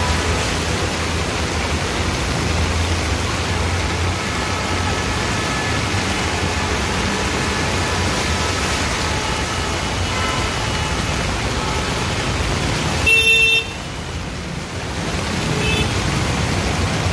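Heavy rain falling in a steady hiss on a flooded street. A vehicle horn gives one short honk about thirteen seconds in, the loudest sound.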